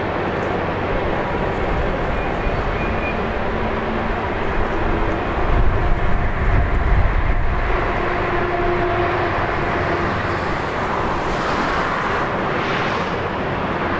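Steady rumbling rush of a CP Rail potash empties unit train rolling over a steel truss bridge, mixed with the rushing of river rapids. The deep rumble swells for a couple of seconds about halfway through.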